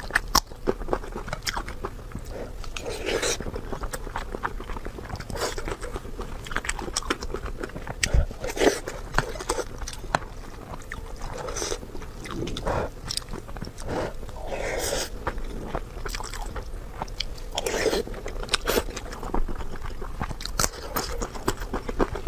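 Close-miked eating sounds: irregular bites, crunches and wet chewing, with short clicks throughout.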